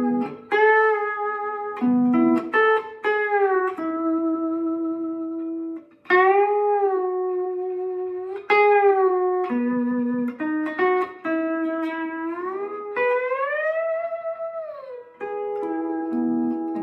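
Lap steel guitar in G B D G B D tuning played with a steel bar: a slow melody of picked notes that ring on, many slid into pitch, with one long slide up and back down late on.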